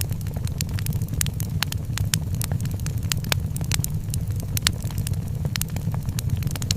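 Wood fire crackling in a fireplace: frequent sharp irregular pops and snaps over a steady low rumble of the flames.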